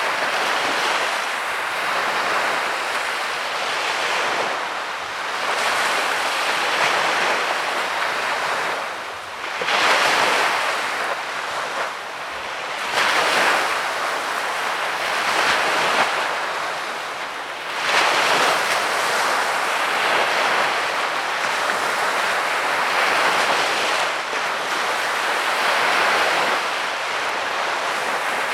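Small waves breaking and washing up a sandy beach, the surf swelling and easing every few seconds, with wind on the microphone.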